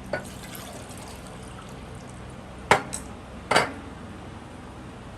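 Water poured from a jug into a glass, then two sharp knocks of glassware set down on a table.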